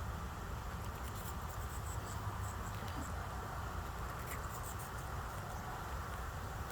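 Quaker parrot's beak nibbling and scraping at apple: faint, irregular small clicks and scratches over a steady low background hum.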